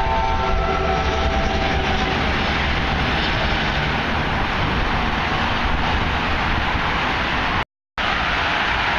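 NJ Transit electric locomotive-hauled commuter train moving through the station: a steady rumble with rail noise. A few level tones fade out in the first couple of seconds. The audio cuts out for a moment near the end.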